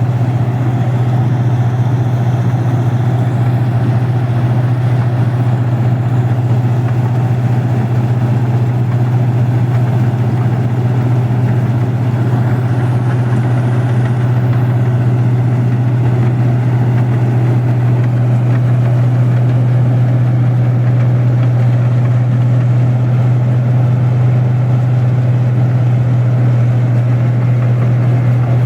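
Rice combine harvester running, a loud, steady engine drone with a strong low hum and mechanical clatter that does not change.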